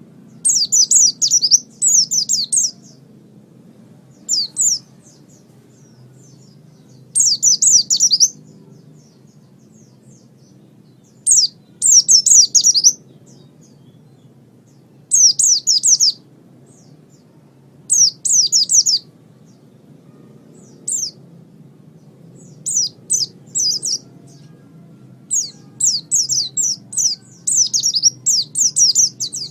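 White-eye (pleci) singing: short bursts of rapid, high chirping notes, each a second or so long, repeated every few seconds, over a faint low hum.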